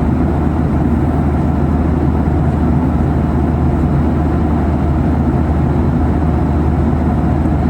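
Steady jet engine and airflow roar inside the cabin of a Boeing 737-800 with CFM56-7B turbofans, heard during the takeoff-and-climb phase. It is an even rushing noise over a deep, constant hum.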